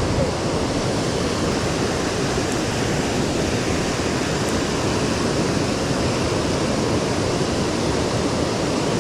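Steady rush of creek water, an even loud hiss with no change in level.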